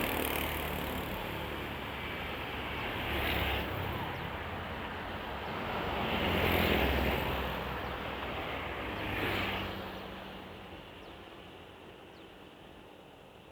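Road traffic: four vehicles pass one after another, about three seconds apart, each a swell of engine rumble and tyre noise. The sound then fades away over the last few seconds.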